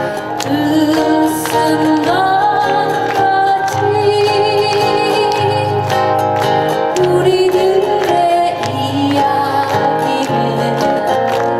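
A woman singing a slow waltz-time Korean trot song live over a backing track with bass and guitar.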